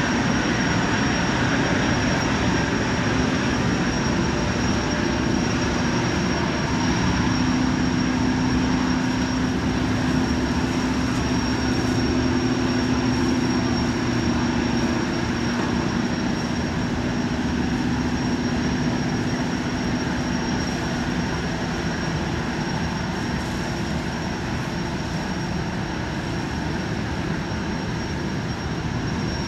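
Jetfoil's gas turbines running with a steady high whine over a dense mechanical rumble as the boat gets under way, getting slightly quieter over the last several seconds.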